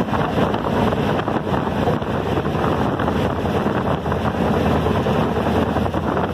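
Passenger train running at speed, a steady rumble of wheels and carriage, with wind buffeting the microphone at the open carriage window.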